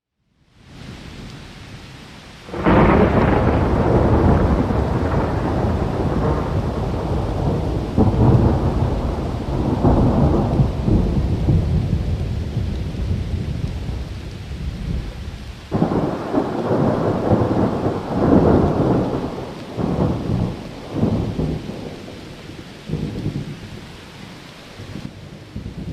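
A thunderstorm: steady rain under rolling thunder that comes in several loud swells. The first and biggest starts about three seconds in, and others follow through the rest.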